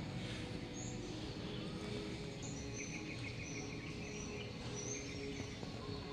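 Small birds chirping: a run of short high chirps about every half second and a quick trill about halfway through, over a steady low background hum.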